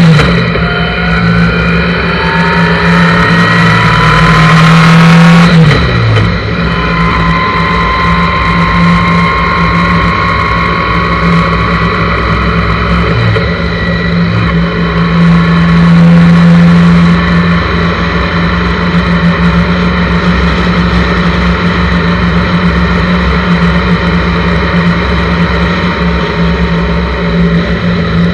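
1983 Honda GL1100 Gold Wing's flat-four engine pulling a sidecar rig down the road, with wind rushing over the handlebar-mounted microphone. The engine note rises for the first few seconds, drops sharply about six seconds in, then holds fairly steady.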